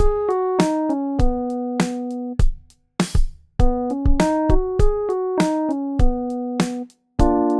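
Electric piano playing short stepped chord and note patterns with drum hits, a backing track for R&B vocal warm-up exercises. It stops briefly twice, about two and a half seconds in and near the end.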